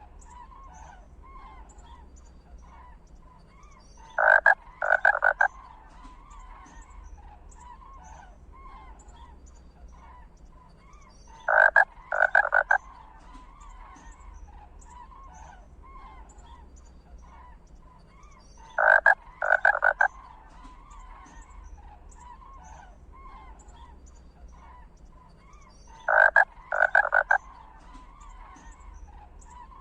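A loud group of two or three harsh animal calls repeats about every seven seconds, evenly spaced, over a faint steady chorus of small chirping calls.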